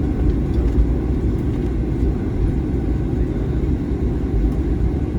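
Steady low rumble inside the cabin of a Boeing 737-800 on the move, with no distinct knocks or changes.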